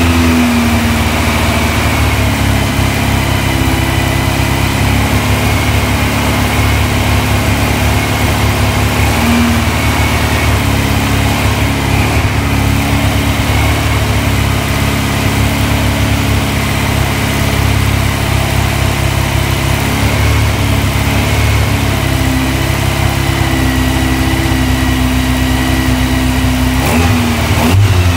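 Air-cooled VW Type 1 flat-four stroker engine (2054 cc) running on an engine stand at a fast idle of about 2,000–2,500 rpm for the cam break-in of a new build. The speed stays fairly steady, wavering slightly as the throttle linkage is adjusted.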